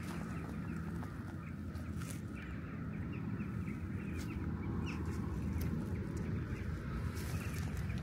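Birds chattering continuously over a steady low rumble, with a few faint clicks.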